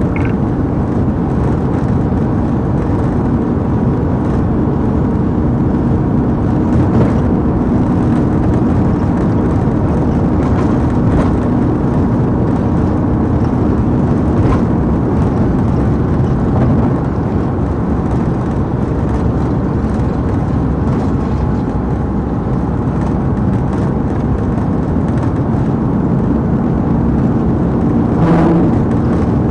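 Police patrol car driving fast during a pursuit: steady engine and road noise with a low hum, broken only by a few faint clicks.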